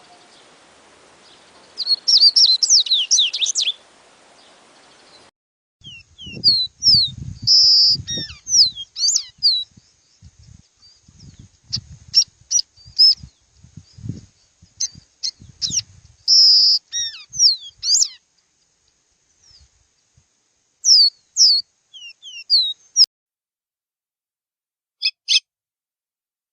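Songbird singing: a quick burst of high twittering notes, then after a cut a run of short, sharp whistled notes and quick glides in loose phrases, with soft low thumps beneath them for a while and one last short burst near the end.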